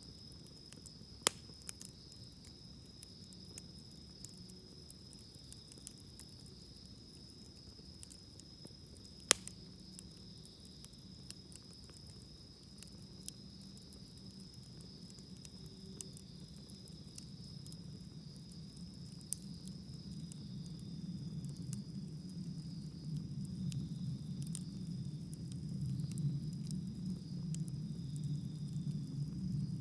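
Wood campfire crackling with scattered sharp pops, two of them much louder, about a second in and about nine seconds in. A steady high insect trill runs under it, and a low rumble grows louder over the second half.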